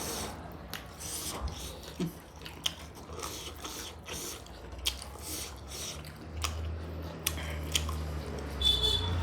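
A person eating chicken and egg curry close to the microphone: chewing and biting, with irregular mouth clicks.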